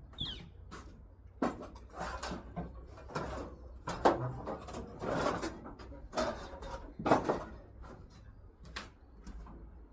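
Irregular knocks and clatters of hard objects being handled, about a dozen over the stretch, over a low steady hum.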